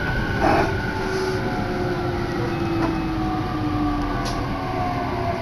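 Electric train running, heard from inside the carriage: a steady rumble of wheels on rails with a motor whine falling slowly in pitch as the train slows. A brief knock about half a second in.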